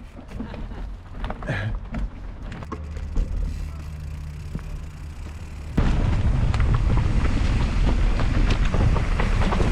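Wind rushing over the microphone and the rattle of a mountain bike riding down a trail, with scattered clicks and knocks. About six seconds in, the wind and rumble become suddenly much louder.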